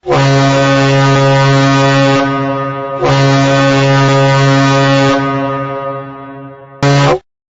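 Ship's horn giving deep, single-pitched blasts: a long blast, a second long blast that fades away, then a short blast near the end.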